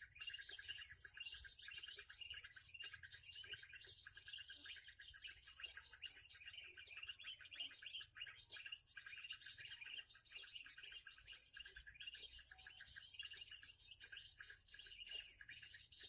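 Faint, rapid, continuous high chirping of a small songbird. A steady high buzz sits behind it.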